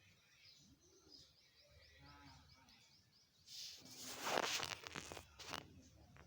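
Birds chirping outdoors, with a quick run of short, repeated high notes. Then comes a louder stretch of rustling noise in several surges.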